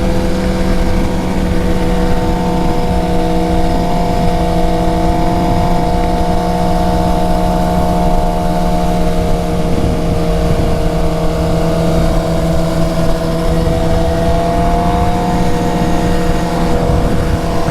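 Suzuki GSX-R750's inline-four engine running at a steady cruising speed, its pitch rising slightly and easing back near the end, with heavy wind noise on the helmet microphone.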